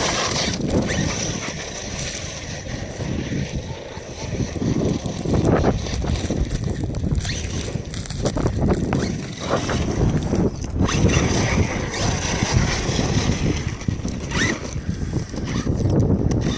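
Arrma Outcast electric RC stunt truck driving on ice, its electric motor whining and rising and falling with the throttle, with wind buffeting the microphone.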